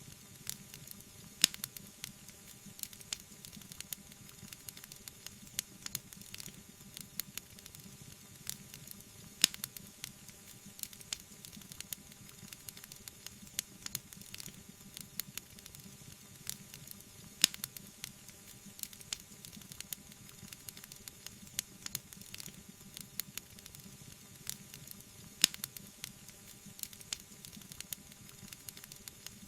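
Wood fire crackling: a steady hiss with frequent small snaps and a few louder pops about every eight seconds.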